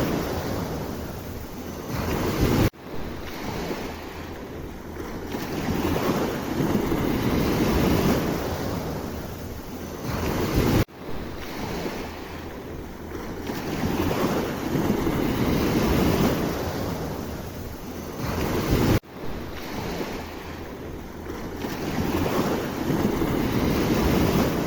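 Sea waves breaking and washing ashore, the rush swelling and fading every few seconds, with wind buffeting the microphone. The sound cuts off abruptly and restarts three times.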